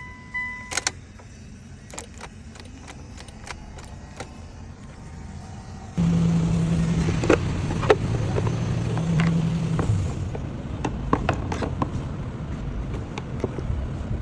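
A short electronic beep and a few light clicks. About six seconds in, a car engine suddenly starts and keeps running steadily; the car has a no-crank fault and is being started by bridging a single wire.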